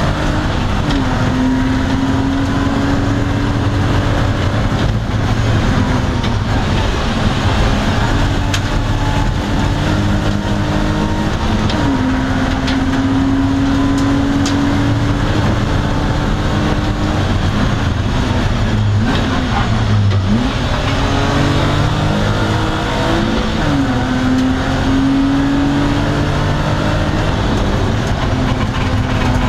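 BMW E30 325's straight-six engine under hard acceleration, heard from inside the stripped, caged cabin. The revs climb and then drop sharply at each upshift, several times over. About two-thirds of the way through comes a short run of quick dips and blips as the car changes down.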